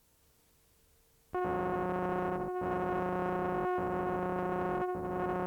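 A sustained electronic moaning drone from the VHS tape's soundtrack: one steady held pitch with many overtones, like a held synthesizer chord. It comes in loudly about a second and a half in and breaks off briefly about every second and a quarter.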